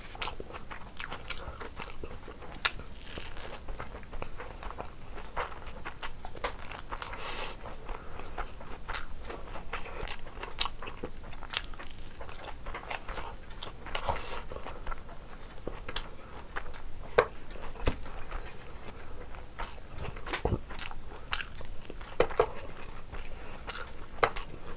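A person chewing and biting food close to the microphone: irregular crunches and wet smacking clicks.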